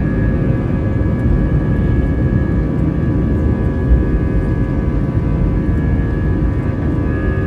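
Steady jet engine drone and rushing airflow heard from inside the cabin of an Airbus A320-family airliner, a deep rumble with a few steady whining tones over it.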